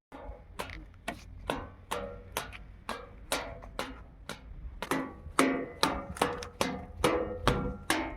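Metal being struck repeatedly with a hammer, about two blows a second and a little quicker near the end, each blow ringing.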